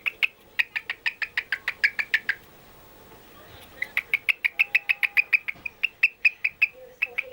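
A pet bird chirping in fast runs of short, sharp, evenly spaced chirps, about five a second. The chirping breaks off for about a second and a half after two seconds, then starts again.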